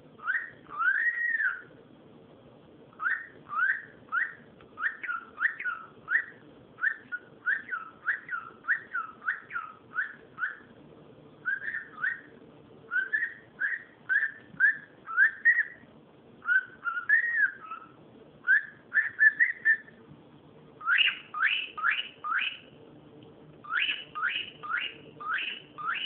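Cockatiel whistling a long series of short chirping notes, about two a second, with two quick runs of four or five sharp rising notes near the end.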